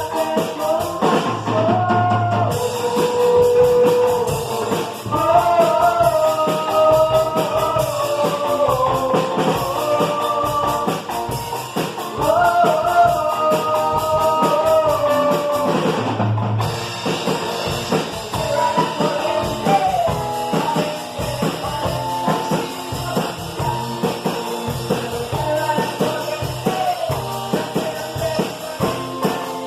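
A band playing a rock song: steady drum kit and guitar, with a sung melody.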